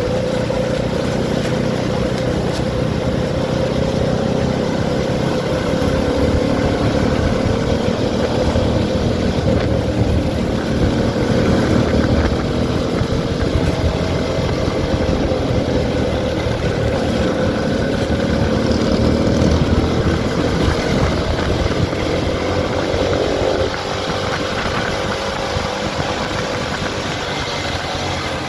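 CFMoto 300SR motorcycle engine running steadily, its pitch slowly rising and falling, and a little quieter for the last few seconds.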